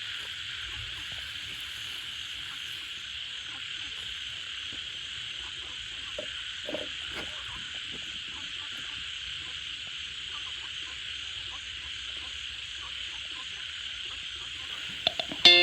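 Steady night-time chorus of frogs, an even high-pitched calling without breaks. Right at the end, guitar music cuts in loudly.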